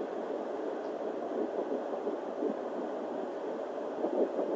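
Fetal heartbeat picked up by a Sonoline handheld home doppler, a fast pulsing beat heard through the doppler's speaker over its steady static, about ten weeks into the pregnancy.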